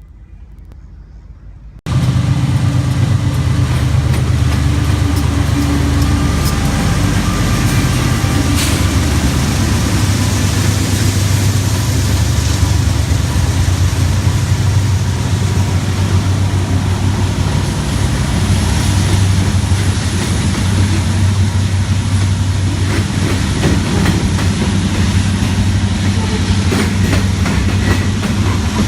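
Diesel freight locomotives (two BNSF units and a KCS unit) running past with a deep, steady engine drone and rumble. The sound comes in suddenly and loud about two seconds in.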